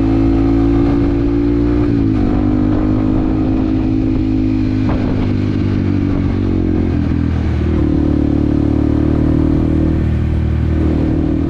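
Yamaha WR155R's 155 cc single-cylinder engine running steadily under way. Its note dips about two seconds in and shifts again around seven seconds.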